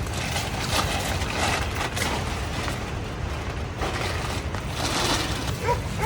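Wind buffeting the microphone, a steady fluctuating low rumble under an even outdoor hiss.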